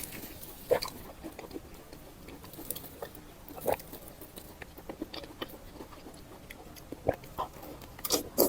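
Close-up eating sounds: chewing and mouth smacks heard as irregular short clicks, with louder smacks about a second in, about four seconds in, and near the end.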